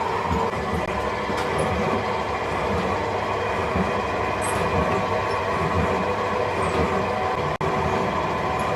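Steady din of heavy factory machinery: a dense rumble with several constant hums over it, dropping out for an instant near the end.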